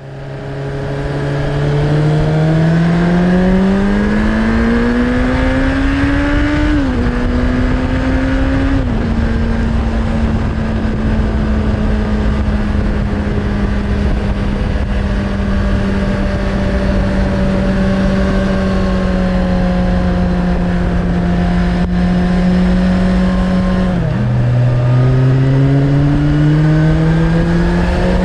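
Suzuki Bandit 600's inline-four engine through a Hashiru aftermarket exhaust, pulling up through the revs. The pitch drops at about seven and again at nine seconds in, then holds a steady cruise; about 24 seconds in the revs fall sharply and climb again. Wind noise sits underneath.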